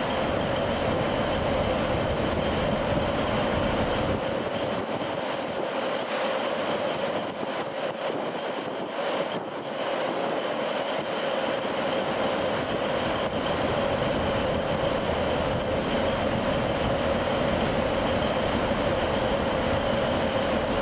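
Passenger train running along the track, heard from inside the carriage: a continuous rumble of wheels and running gear with a steady hum. The low rumble eases for a few seconds in the middle, then returns.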